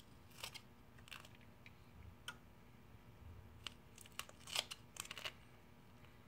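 Scattered faint crackles and clicks of adhesive tape being pulled, snipped with scissors and pressed down along the edge of a phone screen, busiest about four to five seconds in.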